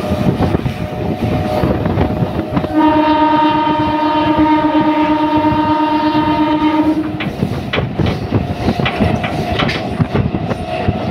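Train horn sounding one steady blast of about four seconds, starting a few seconds in, over the rumble and clickety-clack of train wheels running on the rails.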